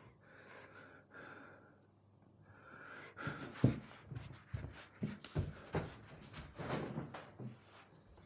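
A person panting and gasping in short, uneven breaths, with a sharp knock about three and a half seconds in.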